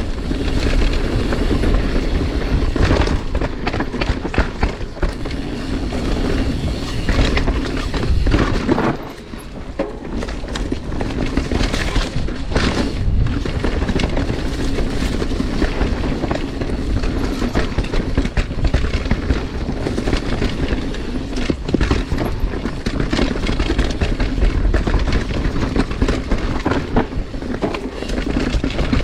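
Mountain bike ridden fast down a dirt trail: a constant low rumble of tyres over the ground with frequent clattering knocks from the bike over rough ground, easing briefly about nine seconds in.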